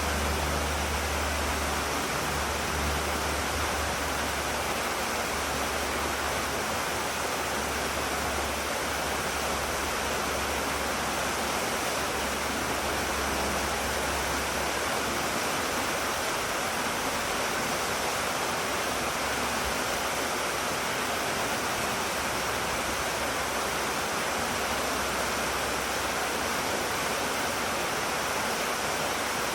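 Water of a mountain stream rushing steadily over rocks, an even unbroken noise. A low rumble sits under it for the first half and then fades.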